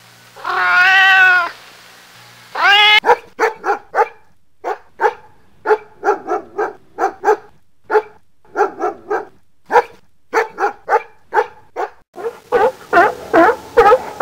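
A cat meows once in a long drawn-out call. Then comes a run of short, sharp barks, two or three a second, which grow quicker near the end.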